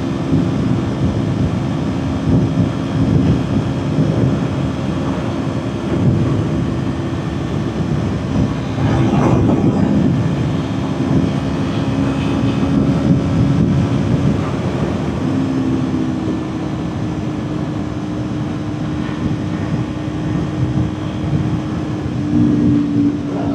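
Kawasaki Ninja 400 parallel-twin engine running at a steady highway cruise, under a heavy rush of wind and road noise. A brief louder rush comes about nine seconds in, and the engine's pitch rises slightly near the end.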